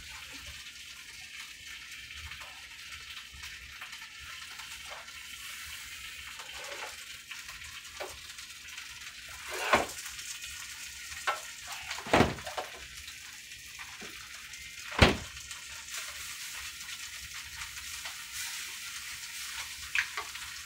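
Filled tortillas sizzling steadily in a frying pan, with a few sharp clacks of the spatula against the pan as they are flipped; the loudest clack comes about three-quarters of the way through.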